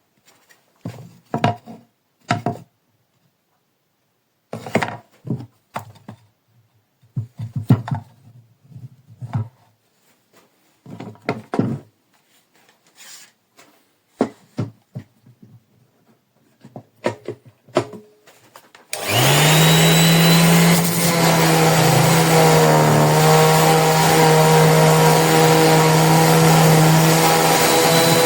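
Scattered clicks and knocks of handling. Then, about two-thirds of the way in, a corded 450 W random orbital sander switches on and runs steadily: a low motor hum with a dense hiss.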